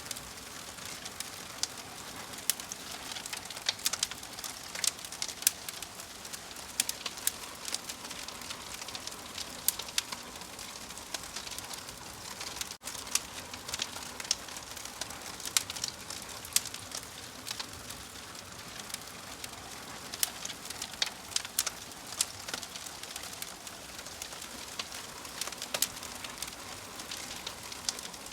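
Wood fire crackling: a steady hiss dotted with frequent sharp pops and snaps.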